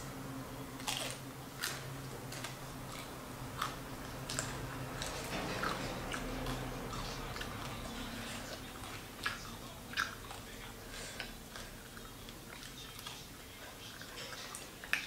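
Close-up chewing and biting of fried fish: wet mouth sounds with scattered short, crisp crunches and clicks.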